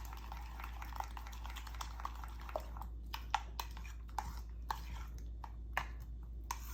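A spoon stirring thinned yogurt raita in a bowl, knocking against the bowl in irregular clicks. A steady low hum runs underneath.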